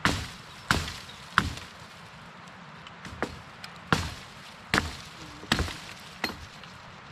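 Wood being chopped: about eight sharp, separate blows, with a short pause about two seconds in.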